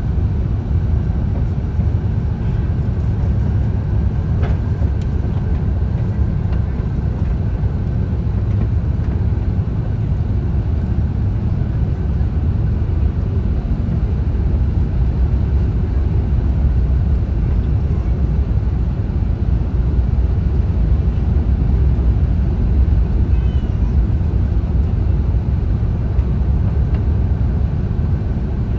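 Airbus A350-1000 airliner's steady low rumble, holding level without change.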